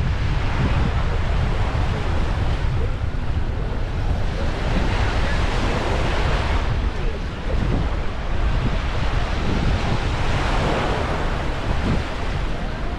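Small waves washing up on a sandy beach, swelling twice, with wind buffeting the microphone in a constant low rumble.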